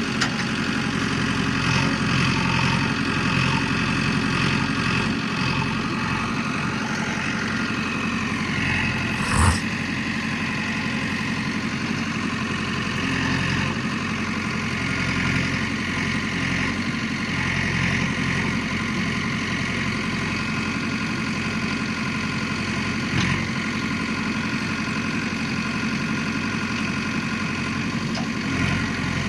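Steady engine running at idle, an even, unbroken hum, with one sharp click about nine seconds in.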